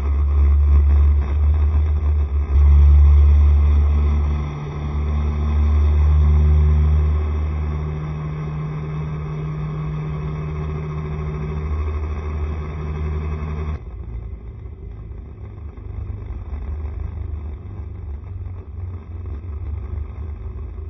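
Riding on a Honda SCR110 scooter: the small single-cylinder engine hums under a heavy low wind rumble on the microphone. The engine note shifts a little with speed, and about two-thirds of the way through the sound drops and turns duller.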